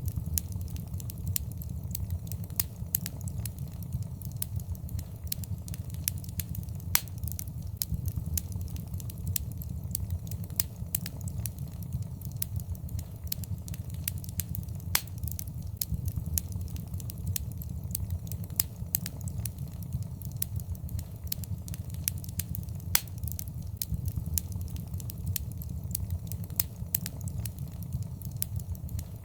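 Fireplace fire crackling: frequent sharp pops and snaps, a few louder ones standing out, over a steady low rumble.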